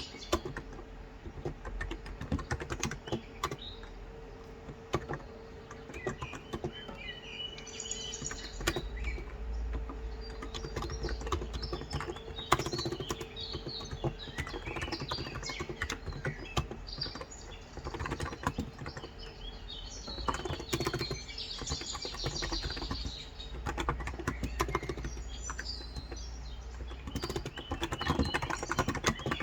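Steady, fast typing on a Cox Endeavor electro-capacitive (Topre-style) tenkeyless keyboard with 35 g switches, a dense run of soft keystrokes. Birds chirp in the background in several short spells.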